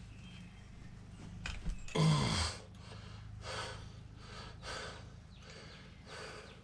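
A person grunting with effort about two seconds in, then breathing hard in several short breaths, over a steady low hum.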